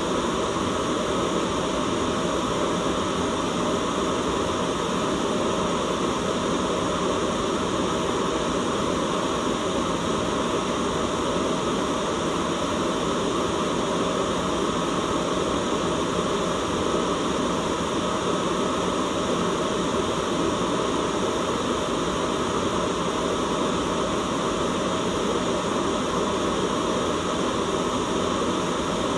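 Continuous white noise: a steady, unchanging hiss spread from deep to high pitches, with no breaks or events.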